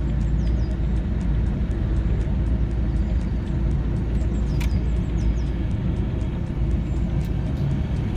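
Car engine and road noise heard from inside the cabin: a steady low rumble, with faint high chirps and ticks over it.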